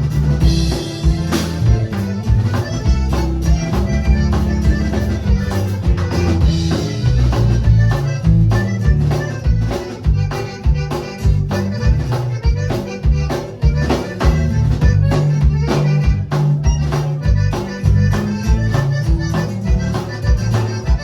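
Accordion playing with a band, over a steady bass line and regular percussion hits.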